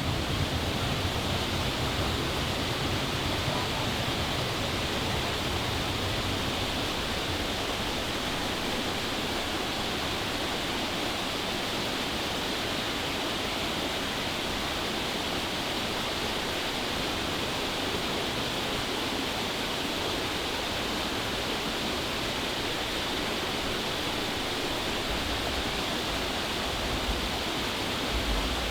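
Steady rushing of falling water, an even hiss with no breaks, with a low rumble dying away in the first few seconds.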